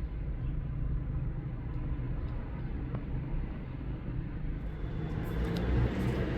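A motor vehicle running, heard as a steady low rumble that grows louder and brighter near the end.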